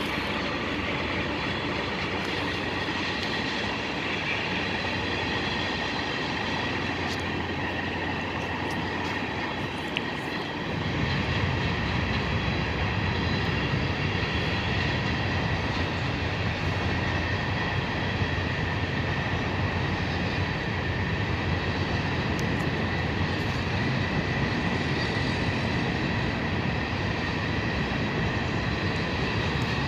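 A train rolling past: a steady, continuous rumble of wheels on the rails, with a heavier low rumble from about ten seconds in.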